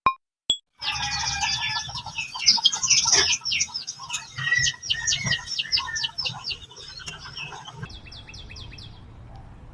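A chorus of small birds chirping and singing together, many calls overlapping, thinning after about eight seconds to a quick run of repeated high chirps.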